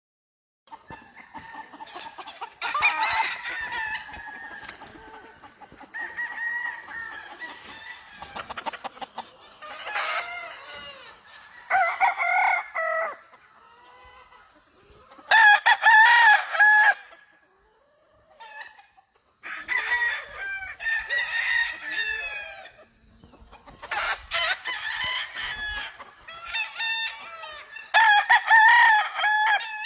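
Several gamefowl roosters crowing one after another, about eight loud crows of a second or two each, some overlapping, with quieter chicken calls in between.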